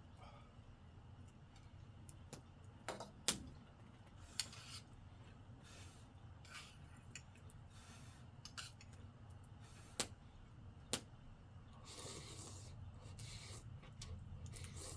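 Scattered light clicks and clinks of tableware, such as utensils against dishes, a few seconds apart, with short rustling near the end.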